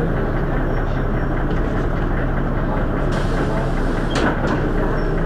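Dennis Arrow double-decker bus's diesel engine running steadily, with a brief click about four seconds in.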